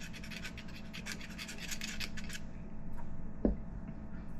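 Rapid scratchy rubbing of hard plastic parts, about eight strokes a second, stopping about two and a half seconds in, followed about a second later by a single dull knock.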